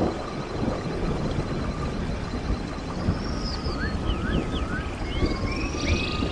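Stream water rushing steadily, with birds singing over it: a few short rising chirps about halfway through and more whistled calls near the end.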